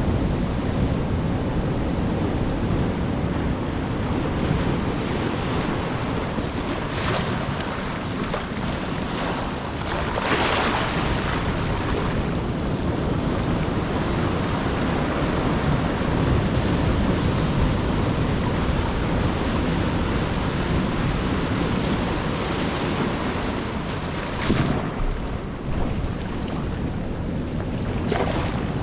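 Ocean surf: a steady rush of waves breaking and washing on the shore, with waves crashing louder about ten seconds in and again near the end. Wind buffets the microphone.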